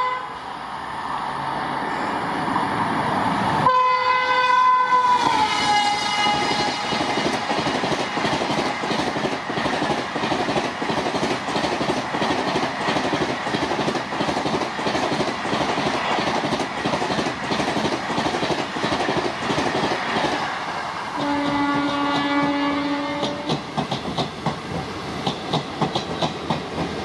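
WAP-7 electric locomotive's horn sounding, its pitch dropping as the train passes at speed, followed by the long rushing clatter of LHB coaches running through, wheels rattling over rail joints and points. Near the end a lower-pitched train horn sounds for about two seconds, then steady clickety-clack of wheels over rail joints.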